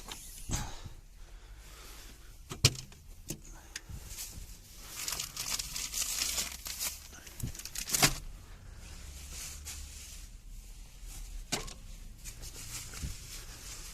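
Bags and food containers rustling and crinkling as food is stowed in a fridge, with two sharp knocks, about two and a half seconds and eight seconds in.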